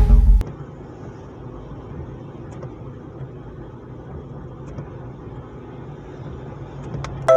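Steady car running noise, engine hum and road noise heard from inside the moving car. Loud music cuts off about half a second in, and a new tune with chime-like notes starts just at the end.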